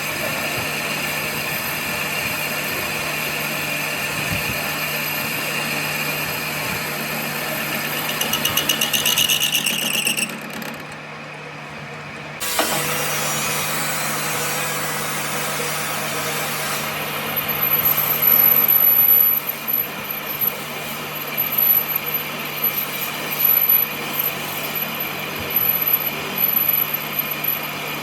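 Workshop machinery running with a steady hum and a high tone. It rises in pitch and level, cuts out about ten seconds in, starts again a couple of seconds later, and then goes on with a high whine and intermittent loud spells of cutting.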